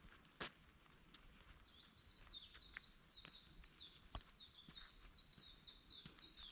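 Songbird singing a fast run of high chirping notes, about four a second, starting about two seconds in over faint forest ambience. A few sharp taps of raindrops falling in the forest, the loudest near the start and about two thirds of the way through.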